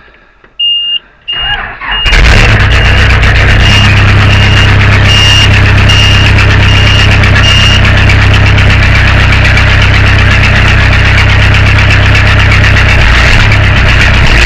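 Case 580 backhoe engine cranking briefly, catching about two seconds in, then running steadily and loudly. A high-pitched beep repeats from under a second in until about eight seconds in.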